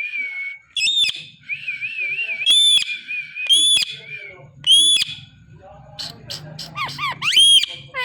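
Pet parrot calling: a run of sharp, high-pitched calls about once a second, with a wavering, warbling whistle between them in the first half.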